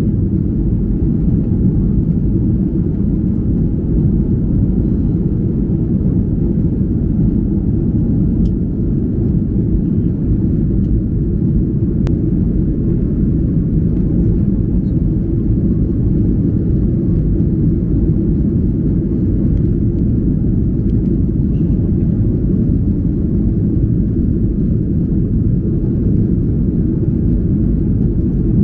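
Steady cabin noise inside a Boeing 737-800 in flight: an unbroken low rumble of engines and airflow that holds a constant level.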